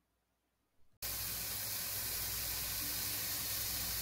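Near silence for about a second, then diced bell peppers sautéing in a pan with a steady sizzle.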